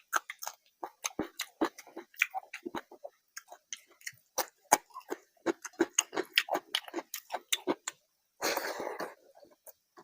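Close-miked chewing and wet mouth smacks of a person eating rice and curry: rapid, irregular clicks and smacks, with a brief louder rushing sound about eight and a half seconds in.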